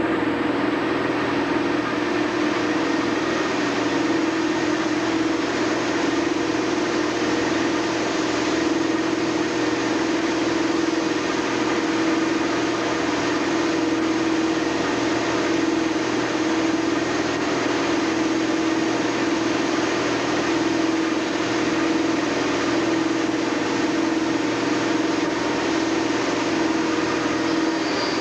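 A stationary train's engine running steadily: a constant drone with a strong, unchanging hum.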